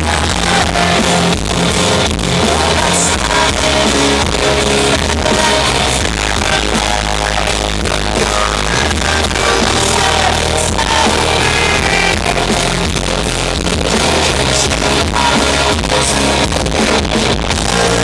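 A live rock band playing, with electric guitars, bass and drums, recorded loud from the crowd at a concert.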